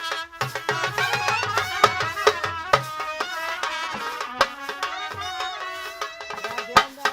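Traditional folk music: a wavering melody played over steady hand-drum strokes, with a few sharp drum hits standing out.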